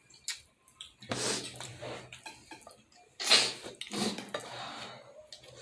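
Close-miked mouth sounds of someone eating momo dumplings: small wet clicks and chewing, with noisy sharp breaths, the loudest a little past three seconds in, as from the heat of spicy food.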